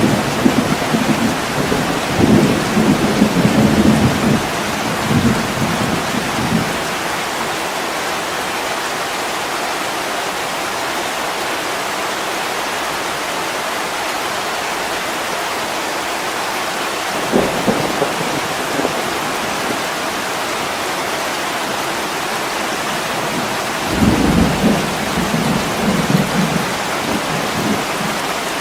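Steady heavy rain pattering on window glass, with rolls of thunder rumbling through it: a long roll over the first six seconds, a short one a little past halfway, and another near the end.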